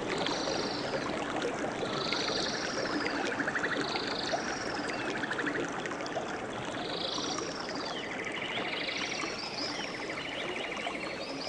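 Nature soundscape: several birds call over and over in short arched high notes and buzzy rapid trills, over a steady rushing of water.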